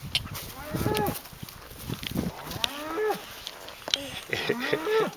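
Cattle mooing: three calls in a row, each rising and then falling in pitch.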